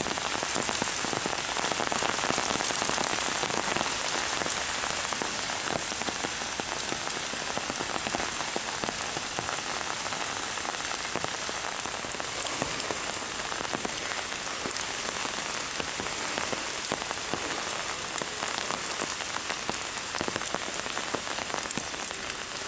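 Heavy rain pouring steadily, a dense hiss with many fine spattering drop impacts on hard surfaces.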